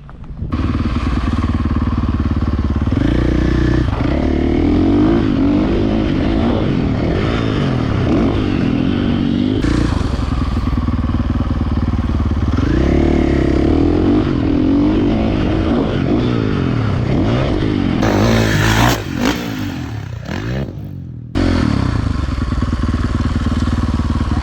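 Dirt bike engine running hard, its pitch rising and falling several times as it revs. About eighteen seconds in comes a clatter of sharp knocks, then the sound drops away and suddenly comes back.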